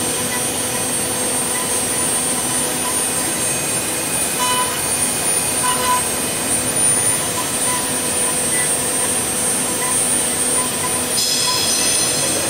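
CNC wood lathe cutting its finishing pass with a 6 mm ball-nose router bit on the turning wood: a steady high whine from the spindle over an even hiss of cutting. About eleven seconds in, a higher whine joins.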